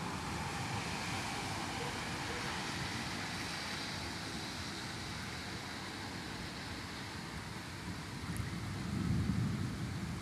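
Steady hiss of heavy rain and strong wind during a thunderstorm, with a low rumble swelling and fading near the end.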